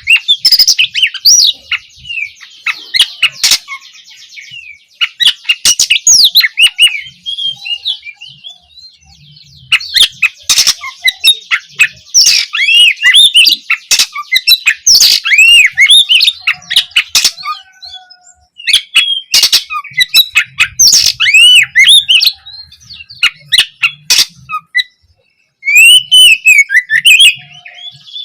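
Oriental magpie-robin (kacer) singing a loud, varied song of quick whistled and gliding phrases mixed with harsh rasping notes and sharp clicks, in bursts broken by short pauses.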